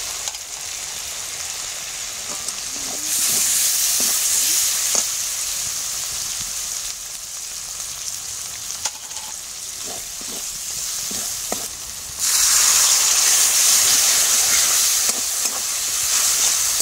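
Onion and spice masala sizzling in hot oil in a metal kadai, stirred and scraped with a metal spatula. About twelve seconds in the sizzle suddenly grows much louder as water goes into the hot masala.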